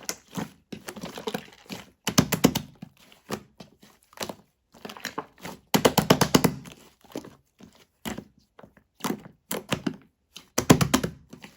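Yellow shaving-foam slime being squeezed and pressed by hand, giving bursts of rapid crackling pops and squelches every second or so.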